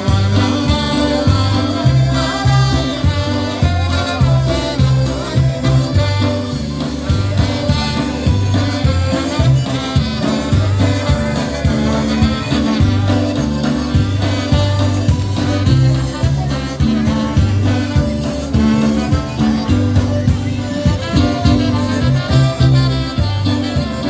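Live polka band playing an instrumental stretch of a polka, with brass and a steady bouncing bass beat.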